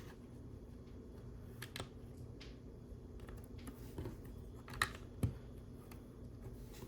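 Plastic LEGO pieces being handled on a table: a few light, scattered clicks, two sharper ones near the end, over a faint steady hum.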